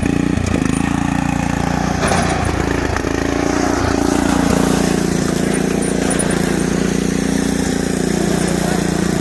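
Riding lawnmower's engine running steadily, its pitch shifting briefly about two to three seconds in.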